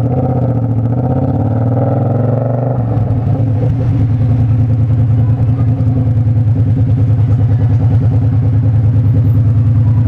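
Naked sport bike's engine running steadily with a fast, even pulse. For the first few seconds a second engine tone bends up and down over it, then only the steady bike engine remains.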